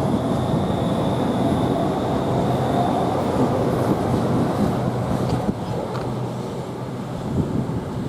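Southeastern Class 395 high-speed electric train moving past: a steady rail rumble with a faint high whine in the first few seconds, easing slightly near the end.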